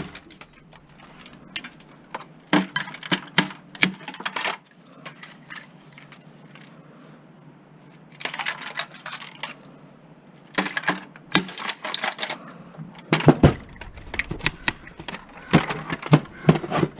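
Bursts of clicking and rattling of small hard metal and plastic parts as an N64 game console is taken apart by hand, with tools knocking against the casing.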